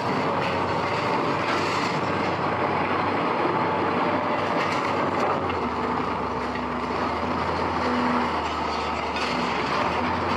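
Heavy rain falling steadily over a mechanical hum, and the hum deepens about five and a half seconds in.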